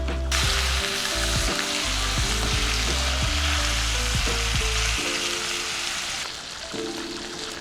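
Food frying in a hot pan: a dense sizzle starts suddenly just after the start and eases off about six seconds in.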